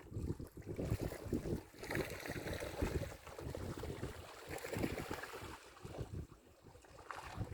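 Gusty wind buffeting the microphone in uneven low rumbles, with running water behind it.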